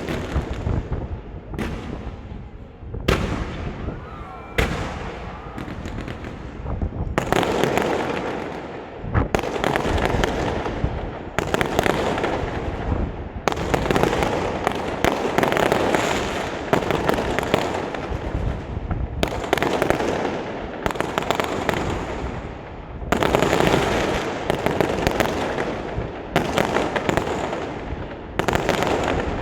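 Aerial fireworks going off in quick succession: sharp booms every second or two, each fading out in a crackling tail.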